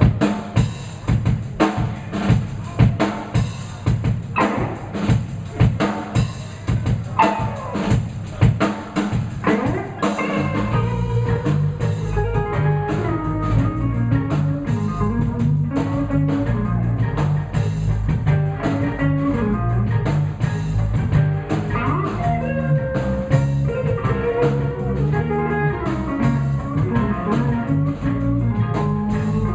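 Live blues band playing an instrumental passage: for about the first ten seconds the drum kit leads with a steady beat of hits, then the bass and electric guitar come in fully and the band plays on together.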